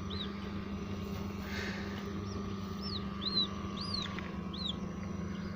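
Newly hatched quail chicks peeping: short, high cheeps that rise and fall, about half a dozen spread through, over a steady low hum.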